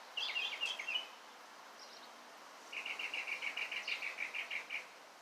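Small songbird singing: a quick jumble of chirps at the start, then, after a short pause, a fast trill of even repeated notes, about eight a second.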